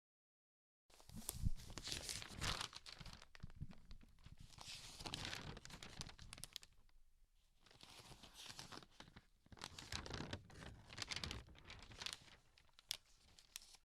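Irregular crinkling and crackling noises, like something being crumpled or torn, in uneven bursts with a couple of short pauses.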